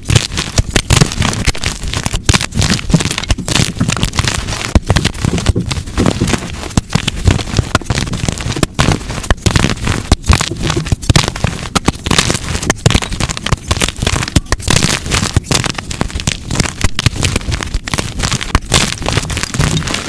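Blocks of dyed gym chalk being crushed by hand: a constant run of crisp crunches and snaps with crumbling.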